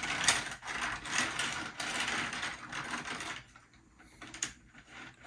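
HO-scale Tyco boxcar rolled along the model track, its wheels and trucks running with a steady clicking rattle for about three and a half seconds, then stopping; a few light clicks follow.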